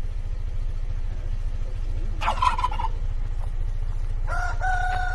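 Bird calls over a steady low rumble: a short rattling call about two seconds in, then a long held call beginning about four seconds in.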